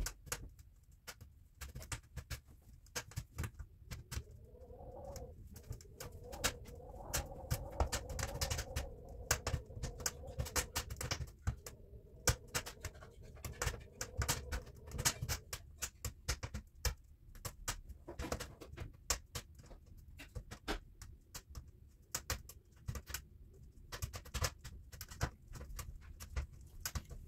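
Wood fire crackling inside a closed wood-burning stove: dense, irregular snaps and pops of burning kindling and split logs. A faint wavering hum joins in from about four seconds in and fades out around the middle.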